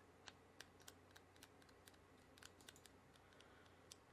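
Faint typing on a computer keyboard: irregular, short key clicks, a few per second.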